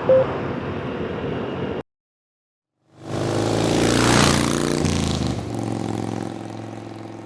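Wind and road noise picked up by the helmet intercom microphone while riding, with a short beep, then a cut to silence. About three seconds in, a motorcycle engine revs up, peaks and then fades away.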